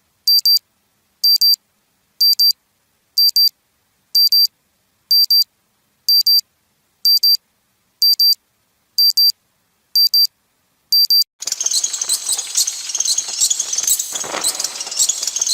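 Digital alarm clock beeping: a high-pitched double beep about once a second, repeated eleven times. About eleven seconds in it cuts to a different effect, a dense crackling, hissing noise that runs to the end.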